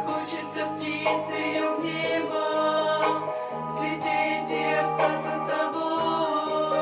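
Female voices singing a Christian song in close harmony over a keyboard accompaniment with held bass notes.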